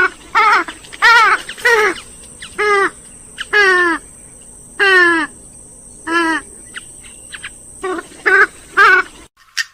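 Grey-headed swamphen calling: a string of about a dozen loud, wavering calls in quick succession, the longer ones falling in pitch, cutting off abruptly near the end.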